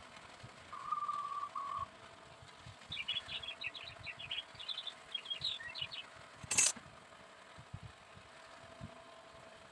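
A bird chirping in a quick series of short notes for about three seconds, after a brief steady whistle. A single sharp click comes about six and a half seconds in, over a faint steady hum.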